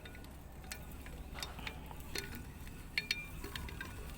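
Light metal clicks and clinks from the parts of a homemade lathe being handled and turned by hand, with a few louder knocks about three seconds in, over a low steady hum.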